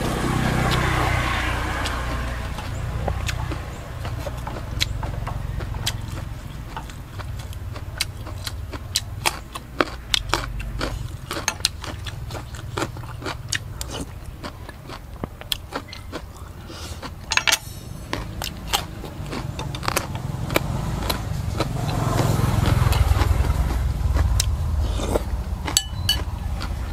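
Close-up eating sounds: crunching and chewing raw vegetables such as carrot, with sharp clicks and scrapes of a metal spoon in the bowl. Under them runs a low rumble of motor traffic that swells near the start and again about three-quarters of the way through.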